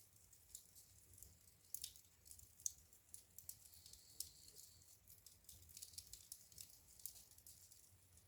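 Wood fire crackling faintly in a fireplace: quick, irregular snaps and pops, with a few sharper ones a couple of seconds in.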